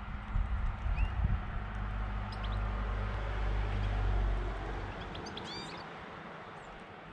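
A low engine hum swells to its loudest about four seconds in, then fades away, as a vehicle passing by would. Over it, European goldfinches give a few short, high twittering calls.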